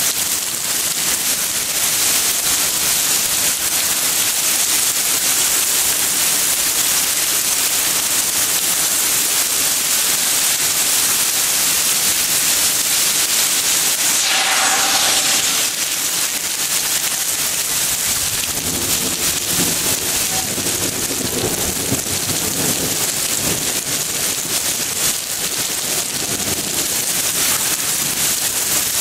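Heavy thunderstorm rain pouring steadily, a dense hiss. A low rumble rises under it for several seconds past the middle.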